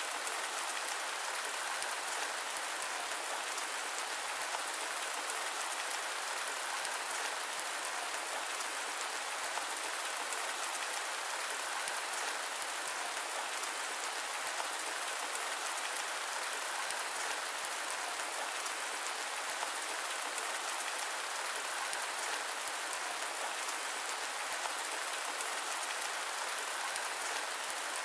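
Steady rain: a dense, even hiss that holds at one level throughout, with no thunder.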